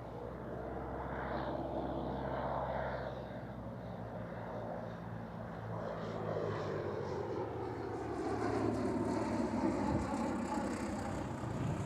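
Propeller airplane flying past with a steady engine drone, its tone slowly shifting and getting a little louder in the second half.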